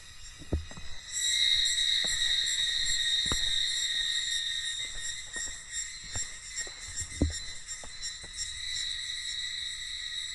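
Cicadas buzzing in a steady high-pitched drone that swells in about a second in, with a few soft thumps.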